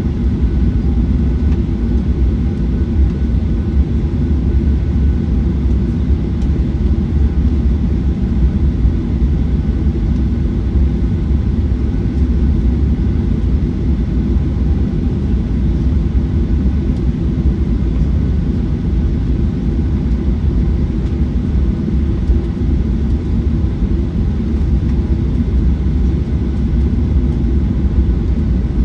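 Steady low rumble of a Boeing 737-900ER's CFM56-7B engines and airflow, heard inside the passenger cabin.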